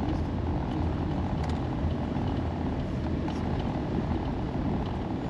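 Steady low rumble of a van driving on the road, engine and tyre noise heard from inside the vehicle, with a few faint light ticks.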